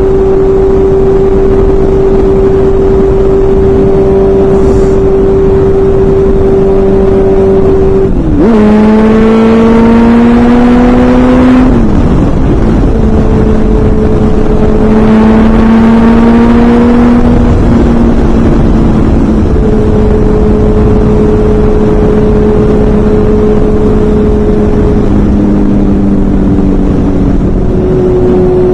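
Honda CBR600 F4i inline-four engine running at a steady high speed, with wind noise. Twice in the middle the engine pitch dips and then climbs steadily for a few seconds as the bike accelerates, then it settles back to a steady tone.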